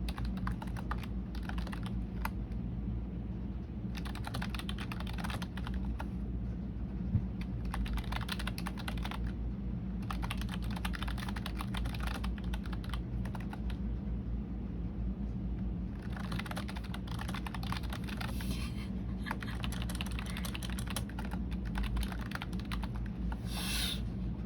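Computer keyboard being typed on in irregular bursts of keystrokes with short pauses, over a steady low hum. A short hiss comes about a second before the end.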